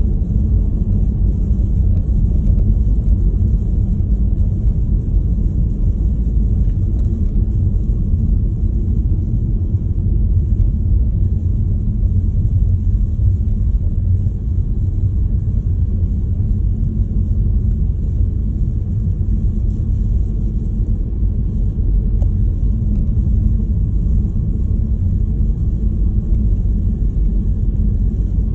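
Storm wind buffeting the microphone as a steady, loud low rumble.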